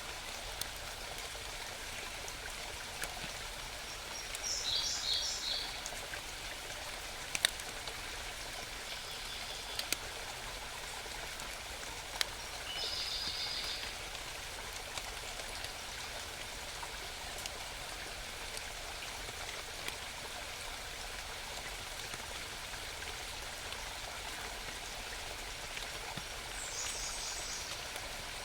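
A small mountain stream babbling steadily, with a songbird singing short high trilled phrases four times: about five seconds in, around nine, around thirteen, and near the end. A few sharp ticks stand out about seven and a half, ten and twelve seconds in.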